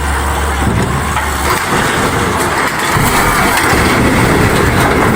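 Heavy truck engine running, a dense steady rumble; a low hum beneath it drops out about a second and a half in.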